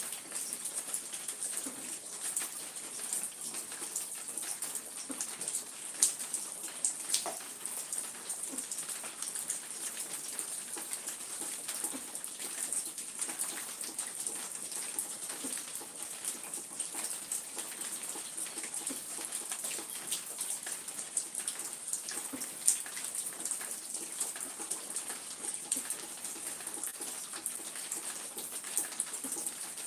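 Steady rain falling, a continuous hiss with many scattered drop ticks and a few louder single drips.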